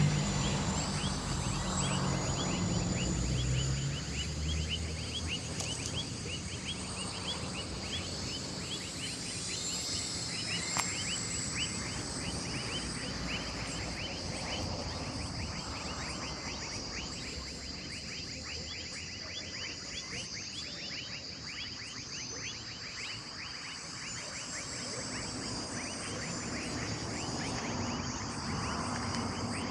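Outdoor animal chorus: a fast, steady run of short, high falling chirps over a continuous high-pitched buzz, like insects or birds. A low engine-like hum fades out in the first few seconds.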